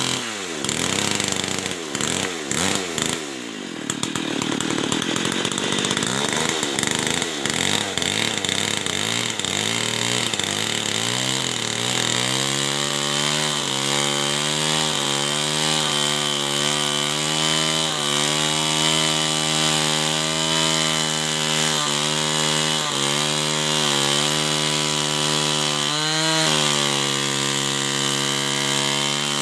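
Two-stroke chainsaw cutting wood. For about the first twelve seconds the engine pitch swings up and down, then it runs steadily at high revs with small dips, and dips once more deeply a few seconds before the end.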